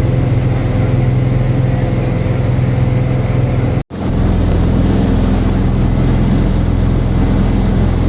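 Boat engine running steadily: a low drone under an even hiss. The sound cuts out for an instant about four seconds in, then resumes unchanged.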